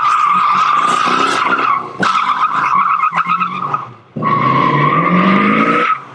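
Car tyres squealing in three long bursts, with the engine revving up under the last one.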